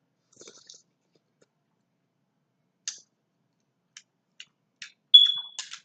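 Scattered small clicks and cracks of seafood shells being handled and eaten, about five separate ones, ending with a short, loud, high-pitched squeak and a brief crackle near the end.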